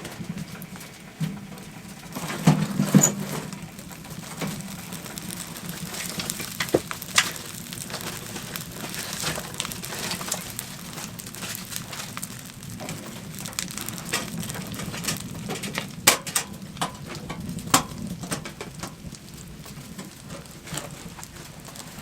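Wood fire in a camp stove crackling, with irregular pops and clicks, and a few louder knocks about two to three seconds in.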